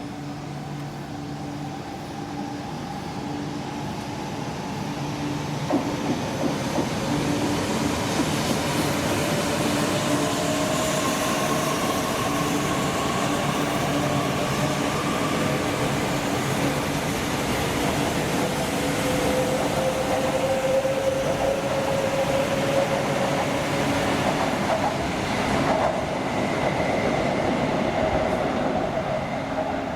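Shinkansen bullet train running along the platform track: a loud, sustained rush of wheels on rail that builds over the first few seconds and holds, with a whine of the traction motors that slowly rises in pitch.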